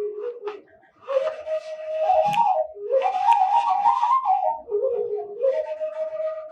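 Washint, the Ethiopian end-blown bamboo flute, playing a breathy solo melody. One phrase stops about a second in and the next begins, moving stepwise up and down and ending on a held note.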